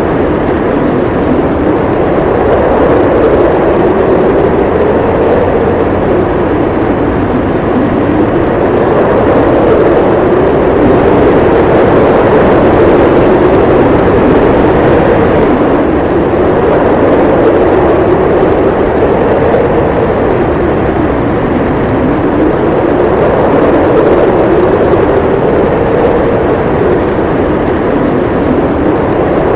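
Howling snowstorm wind: a loud, continuous rush whose howl slowly rises and falls in pitch every few seconds.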